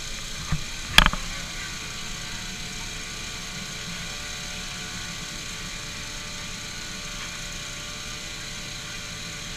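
Vehicle engine running with a steady hum, with a small knock about half a second in and a sharper, louder knock about a second in.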